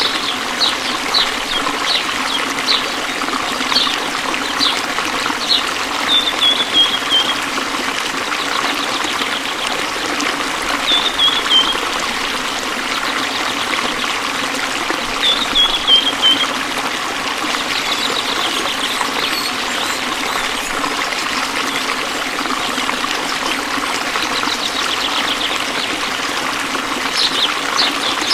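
Waterfall's water running steadily, with birds calling over it: short high chirps near the start and end, and a few brief falling trills in the middle.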